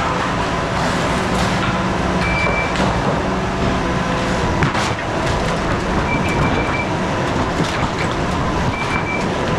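Skid steer loader's engine running steadily while working, with scattered metallic knocks and clanks. Short high beeps sound a few times, about two, six and nine seconds in.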